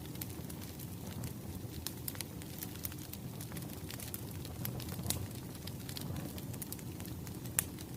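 Wood fire crackling: scattered sharp pops over a steady low rumble, with one louder pop near the end.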